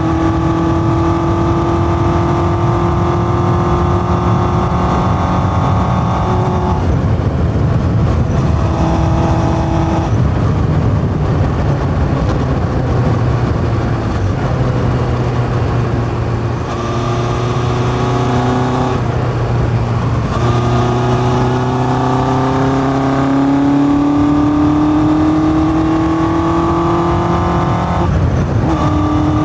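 1981 Yamaha XJ550 inline-four motorcycle engine under way, through a 4-into-1 exhaust with open K&N pod filters. The engine pitch climbs steadily as it pulls, dropping briefly about seven seconds in and again near the end; in the middle the note is rougher and less clear, with more road and wind noise.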